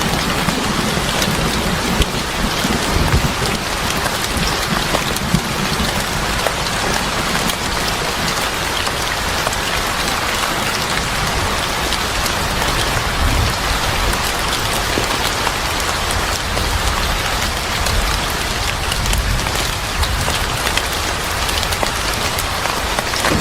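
Steady heavy rain falling on a surface: an even hiss full of small drop taps. Low rumbles swell briefly a couple of times underneath.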